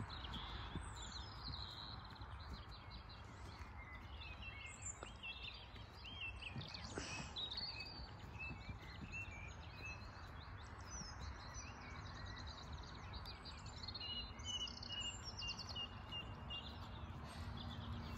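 Several songbirds singing, with many short chirps and trills throughout, over steady low background noise.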